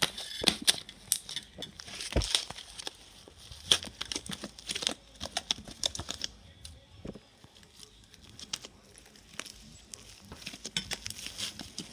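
Slime being squished and handled, giving irregular crackles and small clicks, busiest in the first half.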